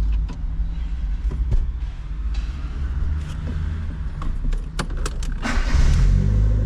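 Fiat Uno car engine running, with a few sharp clicks and rattles about five seconds in, then the engine gets louder near the end as it is revved.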